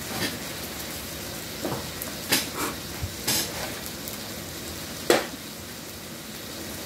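Eating sounds close to the microphone: a few short, sharp wet smacks and clicks from chewing crab meat, over a steady background hiss.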